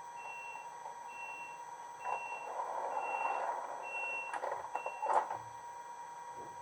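Sound decoder of a Brawa H0 ET 425 S-Bahn model playing six short high beeps, about one a second, in the style of the train's door-closing warning. A hiss joins from about two seconds in, and two sharp clicks come near the end of the beeping, with a faint steady electronic whine underneath.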